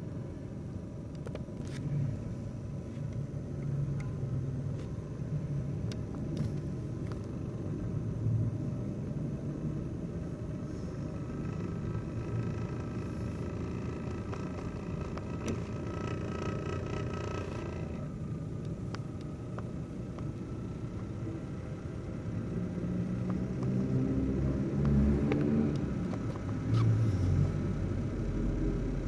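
Laptop CPU cooling fan running with a too-loud rumbling, vibrating noise while spinning slowly, with a thin whine joining in for several seconds around the middle.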